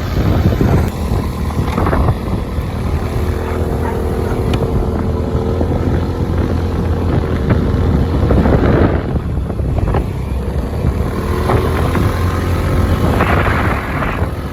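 A vehicle running with a steady low rumble, with wind buffeting the microphone and a couple of louder gusts.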